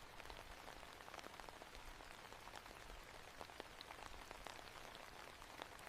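Faint, steady rain ambience: an even hiss of rainfall dotted with many scattered single drop ticks.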